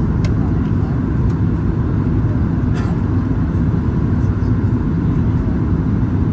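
Steady, loud low rumble of engine and airflow noise heard from inside the cabin of a Boeing 737 MAX 8-200 airliner in flight, with a couple of faint ticks.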